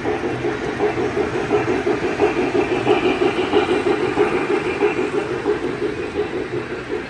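Model train running on a layout's track: a steady mechanical rumble with a fast, even rhythm, a little louder in the middle.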